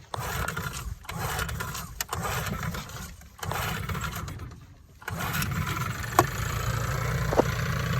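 Freshly rebuilt 1976 Evinrude 15 hp two-cylinder two-stroke outboard being started cold: it fires in uneven spells that dip and die away, then catches about five seconds in and settles into a steady run, with a couple of sharp clicks.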